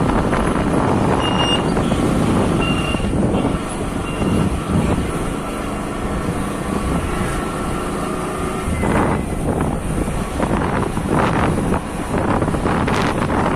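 Motorcycle riding along a road: steady engine and road noise, with a few short high beeps in the first few seconds.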